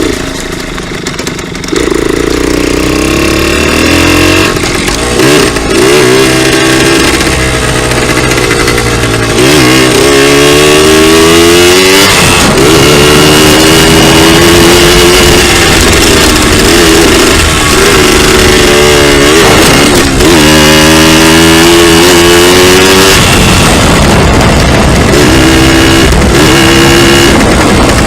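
Dirt bike engine revving while being ridden: its pitch climbs under throttle and drops back, over and over.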